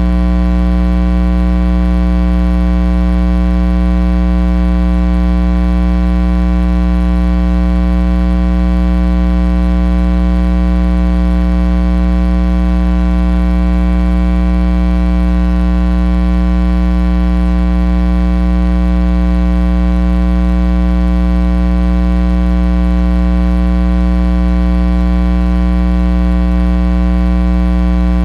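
Loud, steady electrical mains hum: a buzzing drone with many overtones that never changes, typical of a ground-loop hum picked up by the recording.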